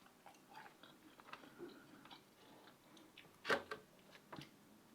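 Faint chewing and mouth noises from a person eating, with small scattered clicks and one louder sharp smack about three and a half seconds in.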